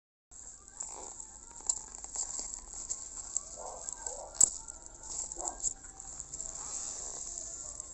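Food sizzling and crackling: a steady high hiss with scattered pops and crackles, and one sharp click about four and a half seconds in.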